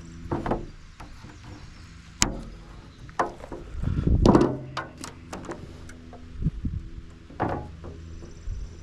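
A series of irregular knocks and clunks, the loudest about four seconds in, over a faint steady low hum.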